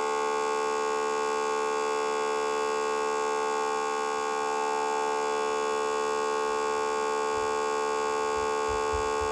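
A steady, unbroken buzzing tone held at one pitch, rich in overtones, with a few faint low thumps near the end.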